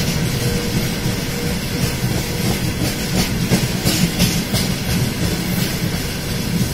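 Freight train of open gondola wagons rolling past close by: a steady rumble of steel wheels on the rails, with a run of clacks over rail joints around the middle.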